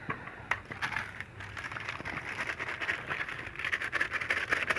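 Scratchy rustling and scraping with many small irregular clicks, from clothes and washing things being handled by hand during hand-washing.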